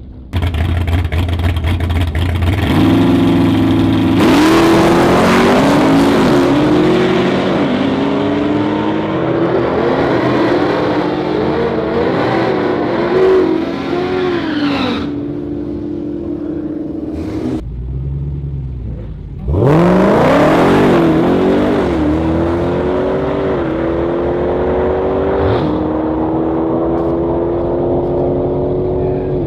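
V8 drag-racing cars at full throttle down the strip. The engine note climbs and drops sharply several times as it shifts up through the gears. It breaks off about 17 seconds in, then another car comes through loud and its pitch falls away as it passes.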